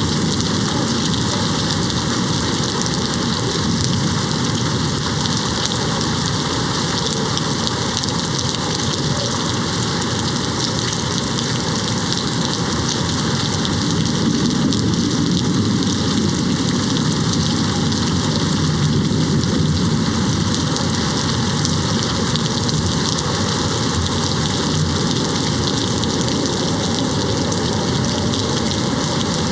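Steady rain beating on a window glass. A low rumble of distant thunder swells about halfway through and fades a few seconds later.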